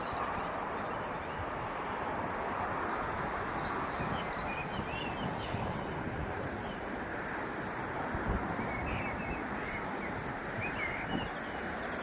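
Small birds chirping and calling repeatedly over a steady outdoor background hiss, with one low thump a little past the middle.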